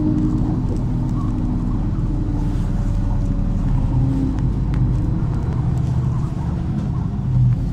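MAZ-103.486 city bus heard from inside, its engine and drivetrain running with a whine that slowly drops in pitch as the bus slows. There is a brief louder knock near the end.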